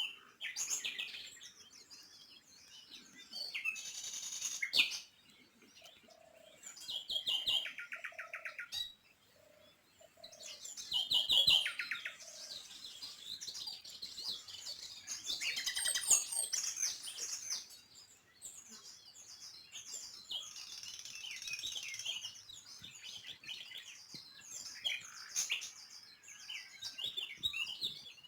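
Small birds chirping and twittering, many short overlapping calls with quick trills. A few brief lower notes come in about a third of the way through.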